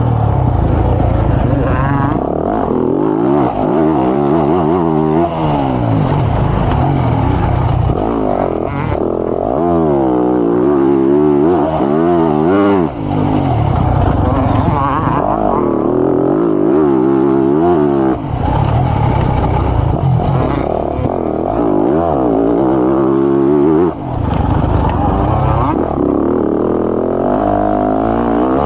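Motocross bike engine heard close up from the rider's own camera, revving up and down over and over as the throttle is opened and chopped through the lap, with a few short drops in level where the throttle is shut.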